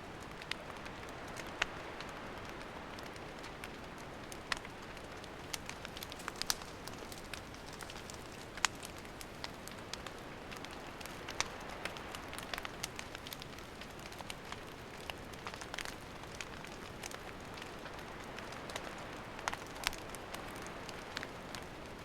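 Wood campfire burning: a steady hiss with irregular sharp crackles and pops from the burning firewood.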